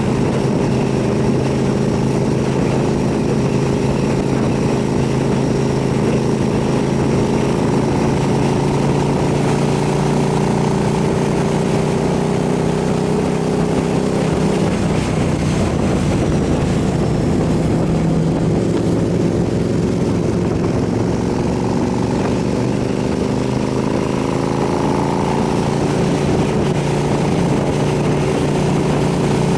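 KTM 990 SMR's V-twin engine running at steady riding speed, its pitch rising and falling gently with the throttle, under a steady rush of wind noise.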